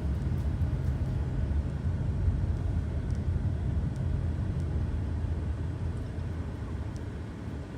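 Steady low engine rumble aboard a river car ferry, easing slightly near the end.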